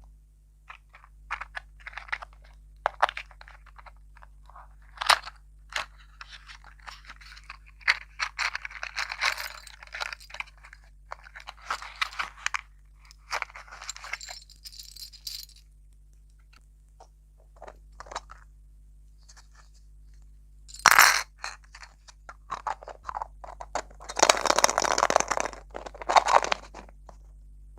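Close-up mukbang eating sounds: irregular crunches and clicks from biting and chewing desserts, with louder bursts of crunching about twenty seconds in and again near the end.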